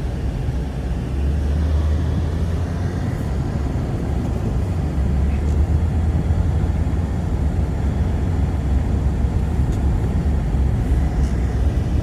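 Strong blizzard wind blowing, heard as a loud, steady low rumble.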